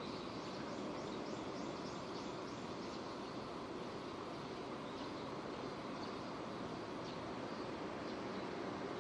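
Steady rain falling, an even hiss with no let-up. A quick run of faint high ticks sounds over the first three seconds, and a few more later.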